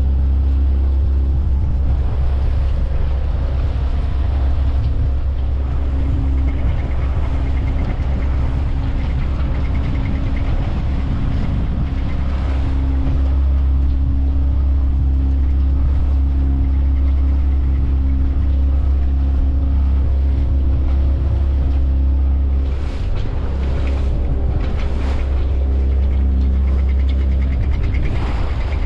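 Small sailboat's engine running steadily at a constant pitch under wind rumbling on the microphone, with a few brief splashes or gusts near the end.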